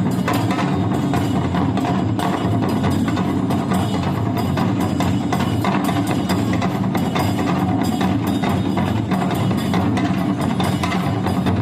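Traditional Japanese percussion music: drums struck in a fast, dense, steady rhythm.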